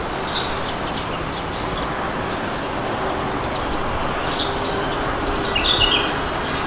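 Steady rushing wind with birds chirping over it, short high chirps here and there and a brief burst of calls near the end.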